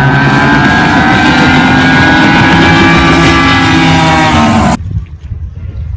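High-performance racing outboard engines of drag boats running wide open on a pass, a loud, dense engine note that climbs slightly in pitch. About three-quarters of the way through it cuts off suddenly, leaving a low rumble.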